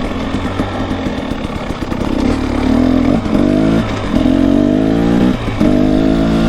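Off-road vehicle engine under way on a trail, heard from the rider's helmet mic: rough and noisy at first, then the engine note climbs under throttle, dropping off briefly a few times as the throttle is let off and opened again.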